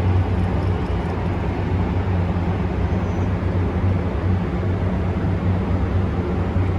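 Steady background din of a car show, a constant low hum under a broad wash of noise, with no single event standing out.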